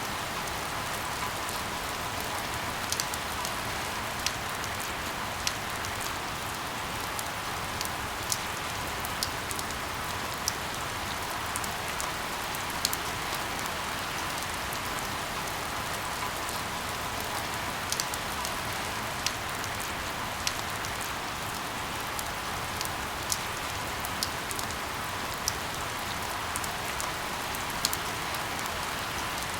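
Steady rain mixed with white noise: an even hiss, with sharp single drops ticking close by about once a second.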